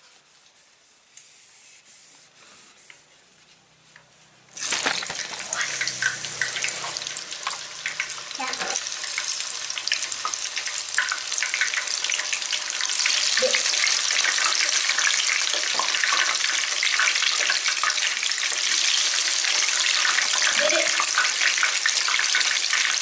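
Tempeh slices deep-frying in hot oil in a wok: quiet at first, then sizzling and crackling sets in suddenly about four and a half seconds in as the tempeh goes into the oil. The sizzling grows louder again about halfway through as more pieces are added.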